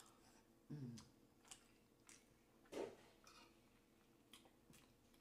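Faint chewing of a soft mouthful of shrimp and grits in gravy, with scattered wet mouth clicks and smacks.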